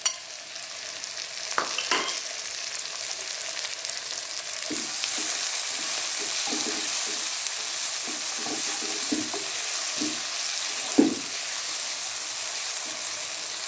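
Sliced tomatoes and onions sizzling in hot oil in a coated pan while a black spatula stirs and scrapes them in a series of short strokes. The sizzle grows louder about five seconds in, and one sharper knock of the spatula on the pan comes near the end.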